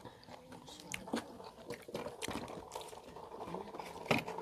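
A person eating: chewing with soft clicks and crunches at irregular moments, the sharpest one near the end.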